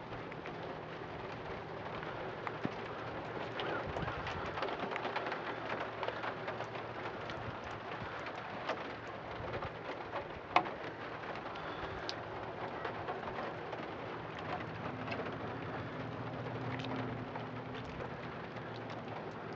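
Birds calling over a steady low hum, with scattered small clicks and one sharp click about ten and a half seconds in.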